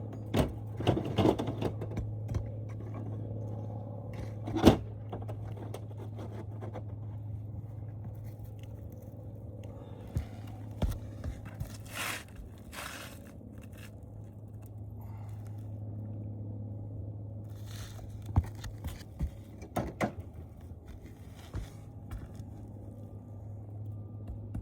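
Hip shingles being handled and fitted on a roof: scattered scraping, crackling and knocks, the sharpest knock about five seconds in. A steady low hum runs underneath.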